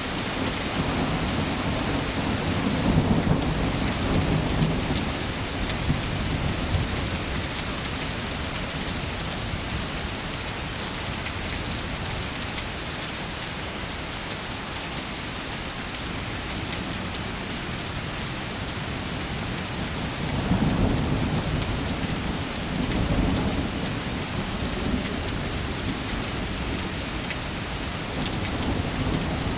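Steady rain, with low rolls of thunder swelling twice: in the first few seconds and again about two-thirds of the way through.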